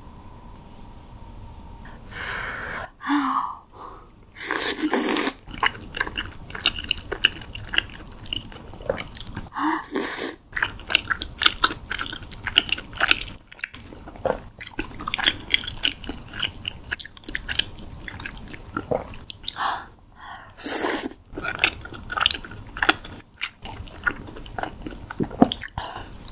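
Close-miked chewing of spicy cheese-topped tteokbokki: sticky, wet mouth sounds with many small clicks. A few louder bursts come between about two and five seconds in.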